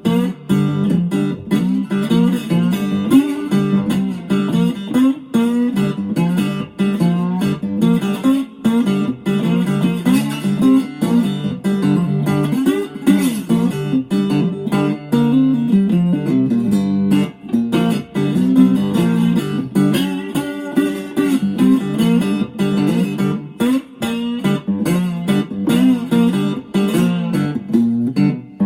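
Homemade four-string parlour-size resonator guitar with a dog-bowl resonator, played through a small Cube amplifier. Single notes and chords are plucked without a break, and notes slide down in pitch around the middle.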